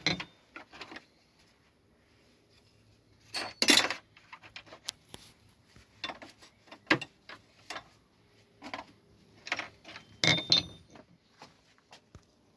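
Metal tools and brake parts clinking and knocking as they are handled, a dozen or so separate knocks, the loudest clatter about three and a half seconds in and another about ten seconds in.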